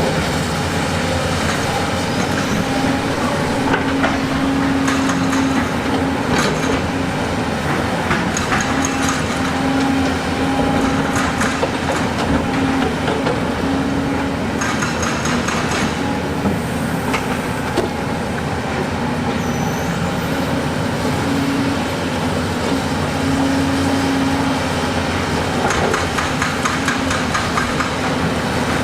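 Heavy diesel earthmoving machinery running steadily, with scattered metallic clanks and knocks of steel and rock coming in clusters throughout.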